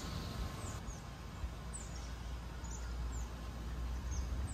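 Small birds chirping: short, high chirps that drop in pitch, repeating every half second or so, over a low steady rumble.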